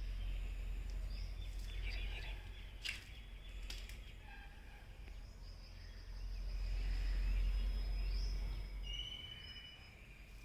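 Small bird calling in short chirps and thin whistled notes, over a low rumble that swells and fades. There are a couple of sharp clicks a few seconds in.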